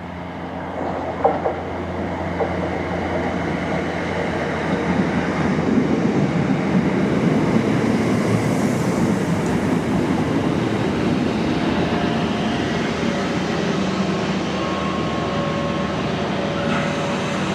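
Electric multiple unit train running along the rails, a dense rolling rumble that builds about a second in and then stays loud and steady, with faint steady whines showing in the later seconds.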